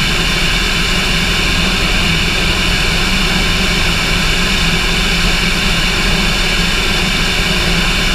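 Cessna light aircraft's piston engine and propeller running steadily, a loud constant drone and hiss that holds one pitch throughout.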